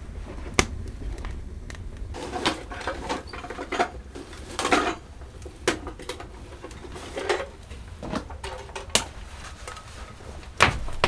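Scattered sharp knocks and short rustling scrapes, over a low wind rumble.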